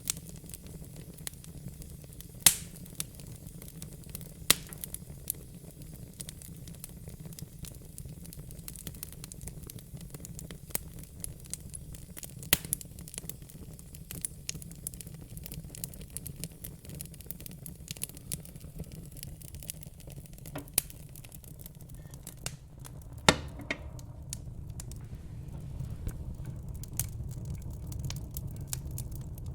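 Wood fire in a fire pit crackling, with frequent small clicks and a few sharp, loud pops, the loudest about two-thirds of the way in, over a steady low rumble.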